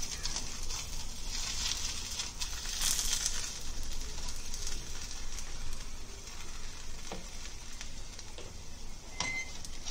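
Oil sizzling steadily under a paratha cooking in a nonstick frying pan.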